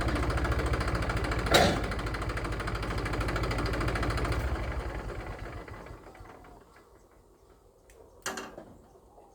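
Massey Ferguson tractor's diesel engine running with an even pulse, then dying away to a stop over about two seconds, starting about four and a half seconds in: the engine being shut off. A sharp knock about a second and a half in, and another knock near the end.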